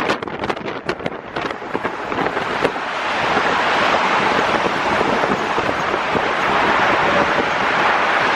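Wind buffeting the microphone of a moving car: quick crackling gusts for the first second or so, then a steady loud rush of wind and road noise from about two seconds in.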